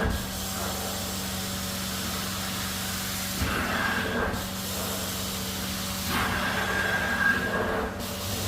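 Carpet-cleaning extraction machine running with a steady hum, while the wand's spray-and-suction passes hiss in repeated strokes a few seconds apart, two of them inside the stretch, each with a thin whistle.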